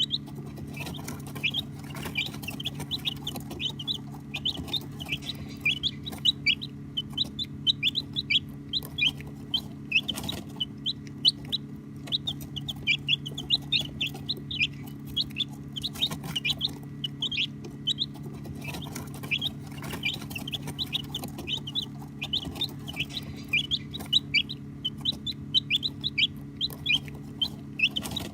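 A brood of baby chicks peeping: many short, high-pitched chirps overlapping in a constant chatter, over a steady low hum.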